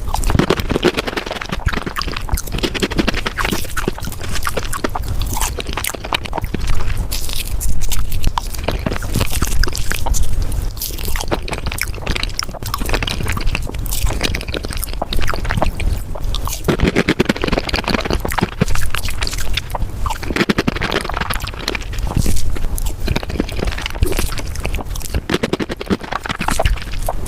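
Close-miked eating sounds played at five times speed: a dense, fast stream of chewing and wet mouth clicks from someone eating cheesecake.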